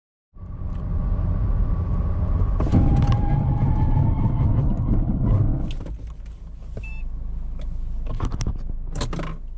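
Suzuki XL6 minivan on the move in gale-force wind, a heavy low rumble of wind and road noise with a faint, slowly rising engine whine. It eases off about six seconds in, and a few sharp clicks come near the end.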